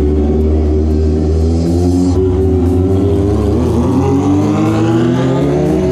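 Kawasaki ZX25R 250 cc inline-four engines with SC Project aftermarket exhausts running at low revs while riding, a loud raspy exhaust note that rises in pitch over the last couple of seconds as the bike accelerates.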